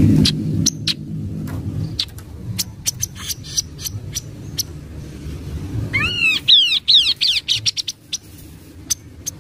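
Kaso-kaso (chestnut-capped babbler) calling: scattered sharp chip notes, then about six seconds in, a quick run of sweeping whistled notes lasting under two seconds.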